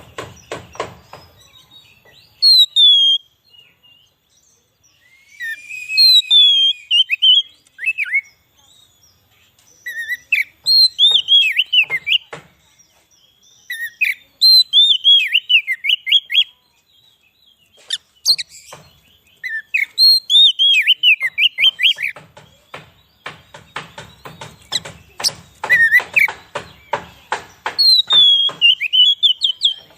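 Oriental magpie-robin (kacer) singing: bouts of clear whistled notes, many sliding down in pitch, each bout lasting a second or two with short pauses between, mixed with runs of rapid ticking notes, densest near the end.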